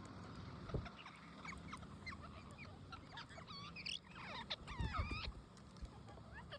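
Pet parrots chirping in short, quick calls that slide up and down in pitch, with a busier flurry of chirps in the middle and a few low knocks.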